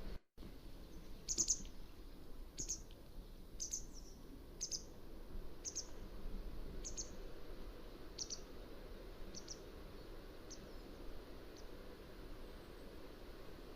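Mountain wagtail giving a series of short, high, sharp calls, about one a second, growing fainter toward the end, over a low steady background noise.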